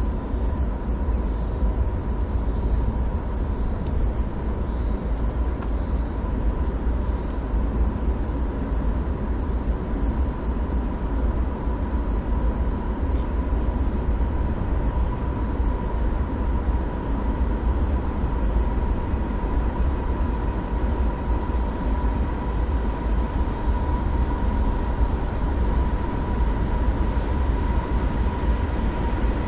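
Freight train rolling past steadily, a continuous deep rumble of railcars on the rails with a steady high-pitched tone running through it.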